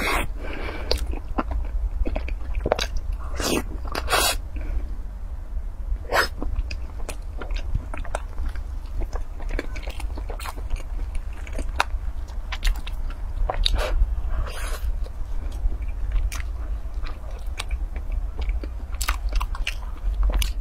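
Close-miked eating of stuffed bread buns: biting and chewing, with many irregular wet mouth clicks and smacks. A steady low hum runs underneath.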